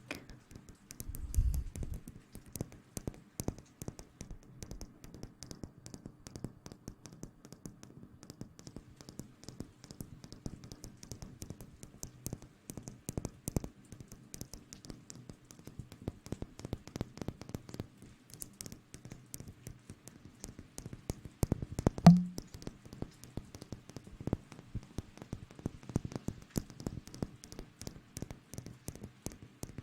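Close-miked ASMR rustling and tapping: a dense, irregular run of small crackles and taps right on the microphone, with one louder thump a little past the middle.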